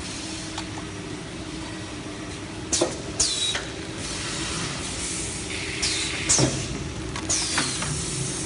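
Toilet paper log band saw cutting machine running with a steady hum and a low tone. About five sharp, high sounds that fall in pitch cut in over it, loosely in pairs.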